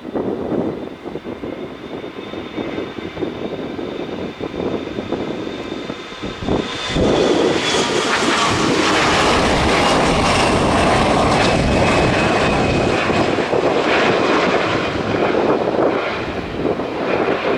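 Mitsubishi CRJ-900 regional jet's twin turbofans at takeoff power: a steady high whine at first, then a much louder rush of jet noise from about seven seconds in as it comes by on its takeoff run.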